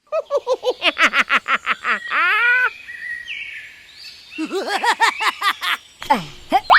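A bird calling in two quick runs of repeated chirps, about five a second, with a brief pause between runs.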